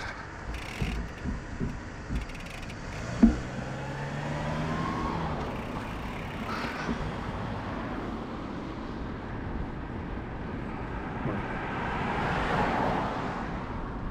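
Road traffic passing: one vehicle goes by a few seconds in and another swells past near the end, over steady outdoor noise. A sharp click sounds about three seconds in.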